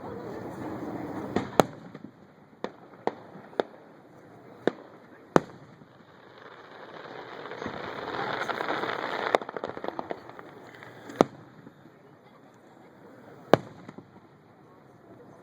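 Fireworks display: about ten sharp, echoing bangs of bursting aerial shells at irregular intervals. Around the middle a swell of dense noise builds and ends in a flurry of small crackling pops.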